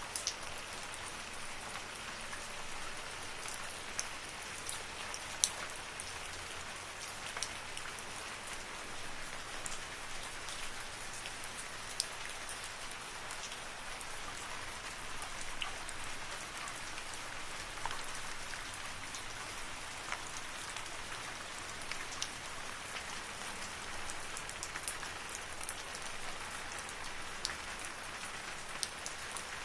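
Steady rain falling in a forest, a continuous hiss with many individual drops ticking sharply on leaves and surfaces.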